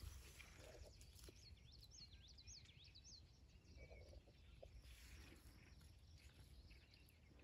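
Near silence: faint outdoor ambience, with a run of quick, high little bird chirps starting about a second in and lasting a couple of seconds.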